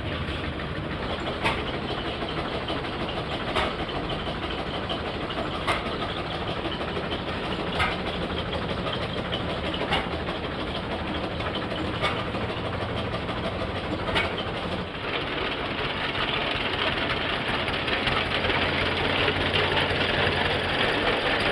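Antique engine-driven mill machinery running, with a steady low hum and a sharp knock about every two seconds. About 16 seconds in the knocking stops and the sound turns louder and hissier.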